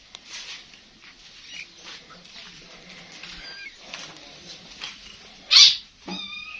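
Small kittens mewing in short, faint, high calls, with one clearer high-pitched mew near the end. Just before it comes a short, loud, noisy burst, the loudest sound in the stretch.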